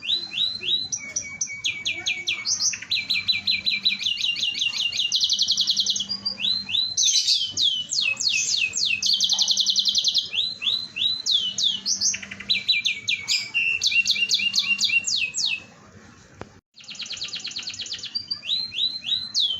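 Domestic canary singing vigorously: long runs of rapid, repeated trills and chirps, each phrase a fast train of identical notes, with a short break about sixteen seconds in before the song resumes.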